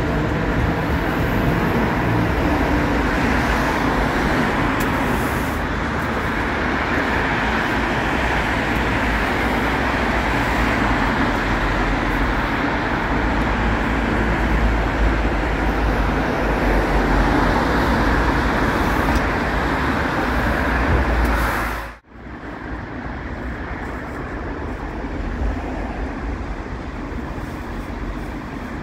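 Light-rail train moving along the platform, blended with steady road traffic on the street beside the tracks. About 22 s in the sound cuts off abruptly and gives way to a quieter, steady station background.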